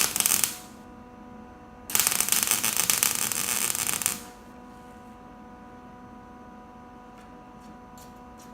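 Welder tack-welding the steel bumper bracket of a car: the arc crackles in two bursts, a short one ending about half a second in and a longer one of about two seconds, over a steady electrical hum.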